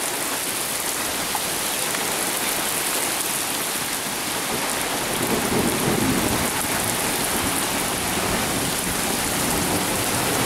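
Heavy rain pouring down steadily, with a low rumble of thunder swelling about five seconds in.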